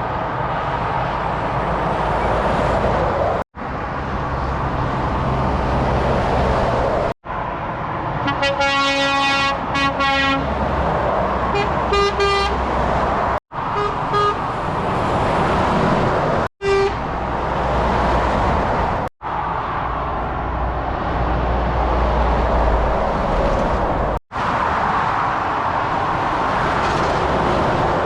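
Steady noise of heavy motorway traffic, lorries and cars passing at speed. A horn sounds one long blast of about two seconds about a third of the way in, then a few short toots; the sound drops out briefly several times at edit cuts.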